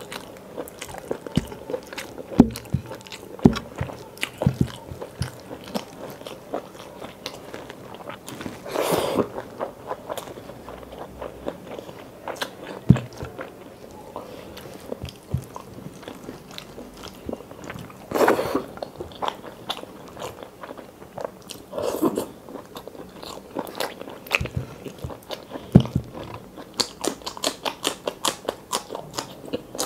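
Close-up eating sounds: chewing, lip smacks and crunching as chicken gizzard curry and rice are eaten by hand, with a few longer, louder mouth noises and a quick run of crunching near the end.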